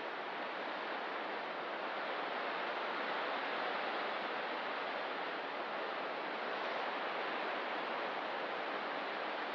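Ocean surf: a steady wash of breaking waves, swelling slightly a couple of seconds in.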